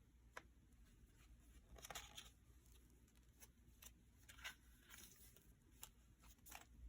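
Near silence with faint paper rustles and light ticks, scattered irregularly, as the paper pages of a handmade junk journal are handled and turned.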